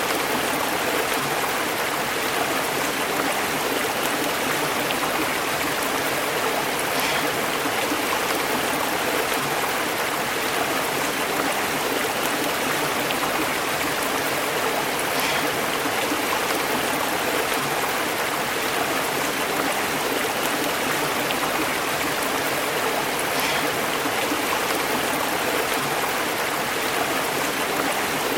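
Small stream flowing and bubbling over rocks: a steady, even rush of water.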